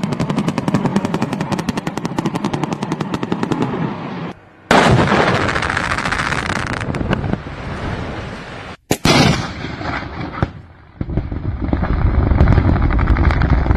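Construction blasting: a rapid string of detonations crackling off in quick succession for about four seconds, then a sudden big blast with rumbling that dies away, and another blast followed by steady rumbling. The sound cuts abruptly between clips.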